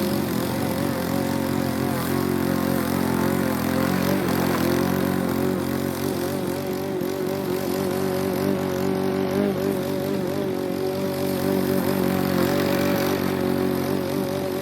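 Troy-Bilt TB110 walk-behind lawn mower's small single-cylinder engine running steadily while mowing, its pitch wavering slightly.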